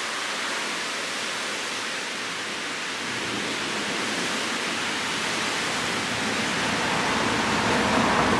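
Heavy rain pouring steadily in a thunderstorm, a continuous hiss that slowly grows louder, with a deeper rumble coming in over the last few seconds.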